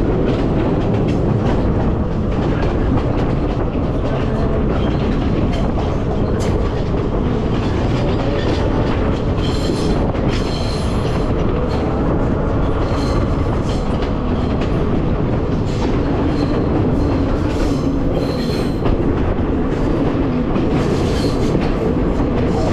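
Passenger train running, heard from aboard: a steady rumble of wheels on the track, with short high squeals from the wheels about ten seconds in, again around eighteen seconds, and near the end.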